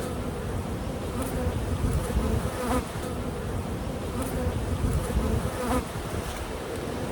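Honeybees buzzing: a steady hum from the colony of an opened hive, with single bees flying close past now and then.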